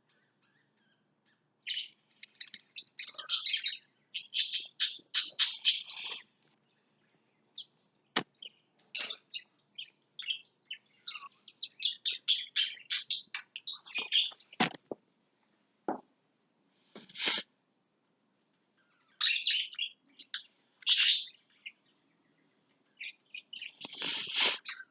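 Pet lovebirds chirping and chattering in short, high bursts with pauses between them. A few sharp knocks or taps are mixed in near the middle.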